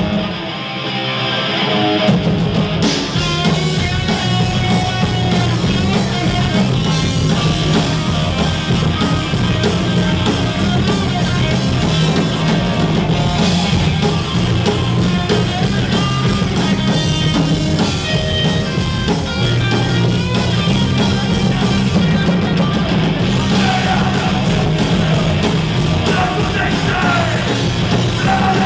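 Punk rock band playing live: distorted electric guitar, bass and drums, loud and driving. It starts sparse, and the full band comes in about two seconds in.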